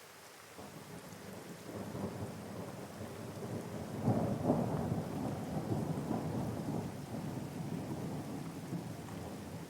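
Steady rain with a long roll of thunder that builds from about half a second in, is loudest around four seconds in, then slowly dies away.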